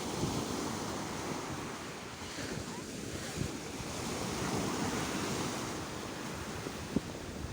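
Sea waves washing in, a continuous rush of surf that swells and eases, with wind buffeting the microphone. A single short tap sounds about seven seconds in.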